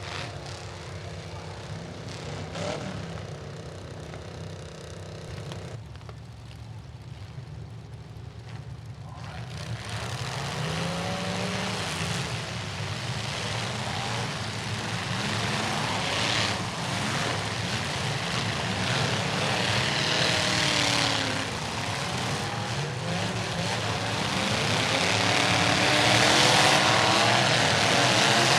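Demolition derby trucks' engines running and revving. From about ten seconds in it grows louder, with several engines rising and falling in pitch over one another.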